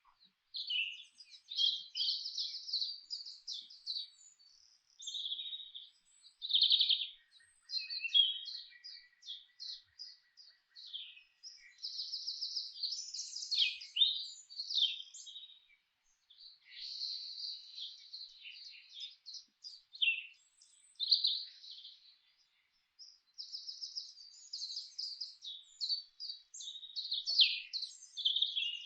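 Songbirds singing: a steady run of quick chirps, rapid trills and short warbled phrases, one after another with brief pauses between them.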